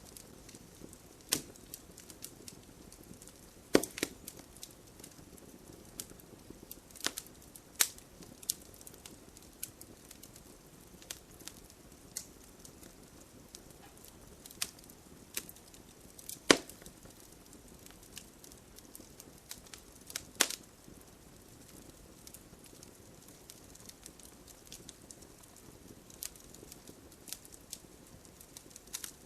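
Wood campfire crackling: irregular sharp pops and snaps over a low steady hiss of burning, with a few louder pops standing out.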